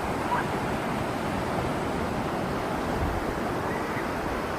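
Ocean surf and steady wind, with the wind buffeting the phone's microphone in low rumbles.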